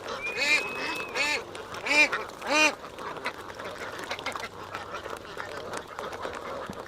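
A flock of domestic ducks quacking: four loud quacks in the first three seconds, then a softer, steady chatter of many ducks. A thin whistling tone sounds for about a second near the start.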